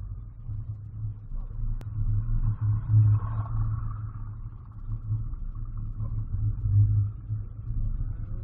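2013 Scion FR-S's FA20 flat-four engine running as a low, steady drone while the car rolls slowly, heard from inside the cabin. The drone swells briefly a couple of times.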